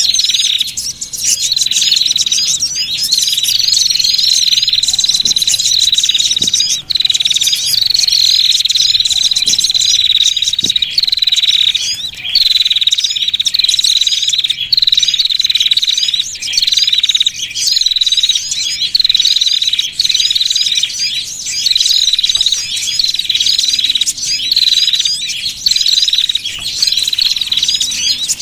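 Bird-trapping lure recording of small songbirds: a dense, continuous chatter of high, rapid chirps and trills from many overlapping birds.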